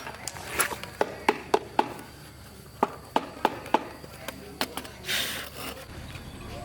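Hand work on motorcycle parts: about a dozen irregular clicks and knocks of tools and parts being handled, with a short scraping hiss a little after five seconds in.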